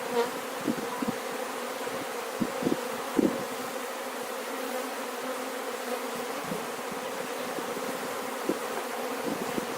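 Honeybees buzzing in a steady hum around an opened hive, the colony stirred up as the bees are brushed off the frames by hand. A few light knocks come in the first few seconds.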